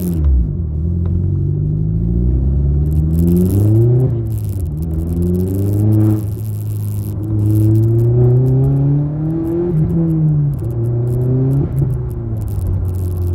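Mk1 Volkswagen's 20-valve engine pulling hard, heard from inside the cabin. The pitch climbs and falls back several times as it goes up through the gears.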